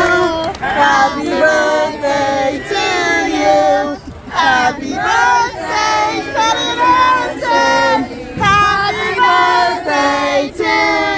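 A group of children singing together loudly, in short phrases of about a second each.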